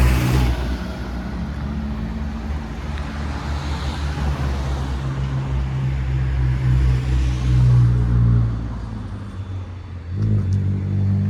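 Street traffic: car engines running close by, with tyre hiss as vehicles pass. The engine sound eases off just before ten seconds in, and another engine comes up near the end.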